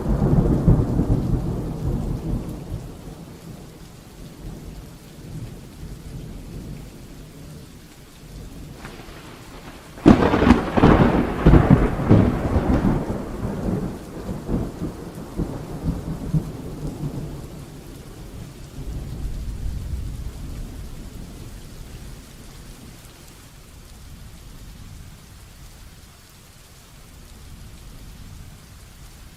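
Heavy rain falling steadily during a thunderstorm. A rumble of thunder dies away over the first few seconds. About ten seconds in, a sharp thunderclap breaks and rolls on for several seconds before fading, with a last low rumble about twenty seconds in.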